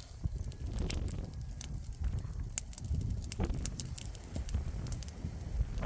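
Wind rumbling on the microphone, with many irregular sharp clicks and crunches over it.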